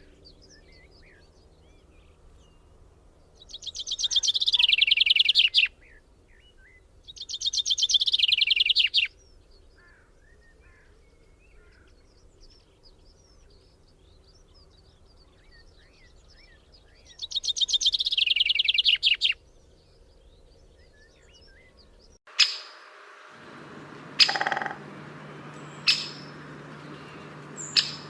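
A songbird singing three long, rapid trilled phrases of about two seconds each, with faint chirps between them. About 22 seconds in, the background changes abruptly and several sharp, short sounds follow.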